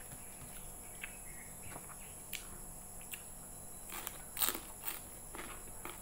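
Close-up chewing and wet mouth sounds of someone eating fried rice vermicelli by hand: scattered soft clicks and smacks, with the loudest cluster about four and a half seconds in as a fresh mouthful goes in.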